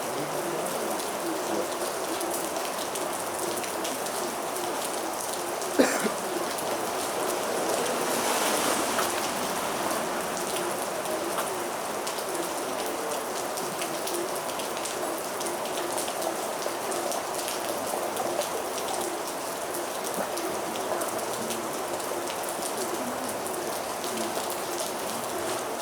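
Heavy rain falling steadily on a surface. A single sharp tap or knock stands out about six seconds in.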